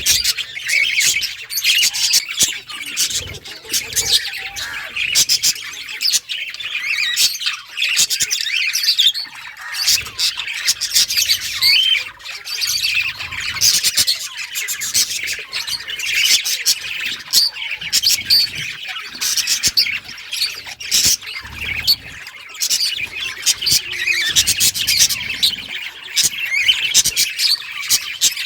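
A flock of budgerigars chirping and singing together: a dense, unbroken chatter of many overlapping high calls.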